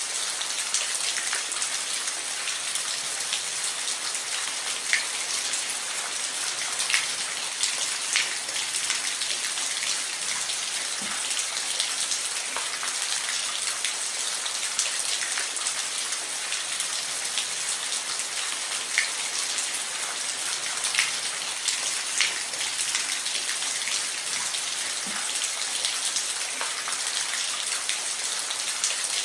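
Steady rain falling on a roof: a dense, even hiss with scattered louder individual drop impacts.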